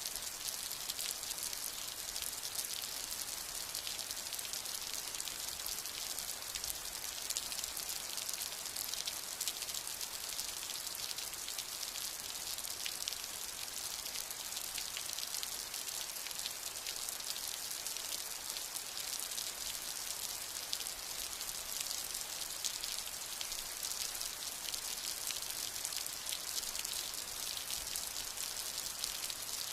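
Steady rain falling: a dense, even patter of countless drops with a bright hiss and no letup.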